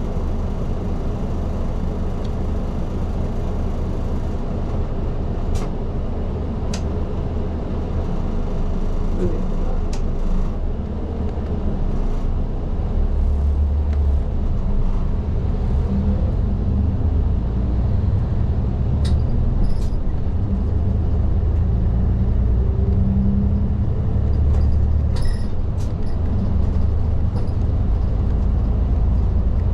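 Diesel city bus (type LDG-KV234Q3) running on the road, heard from inside the front of the cabin: a steady low engine and road drone that gets somewhat louder about halfway through, with a few short clicks and rattles.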